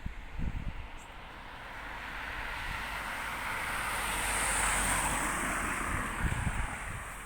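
A vehicle passing by: a rushing noise that swells over about three seconds, peaks near the middle, then fades away.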